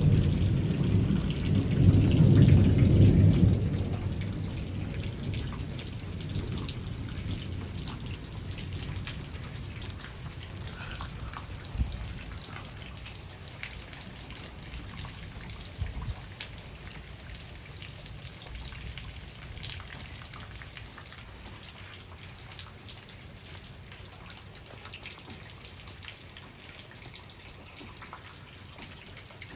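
Rolling thunder rumbling loudly at first and dying away over the first few seconds, followed by steady rain falling, with scattered drops ticking on surfaces.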